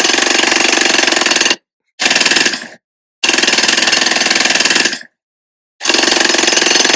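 Jackhammer hammering in rapid blows, in several bursts of one to three seconds with short pauses between.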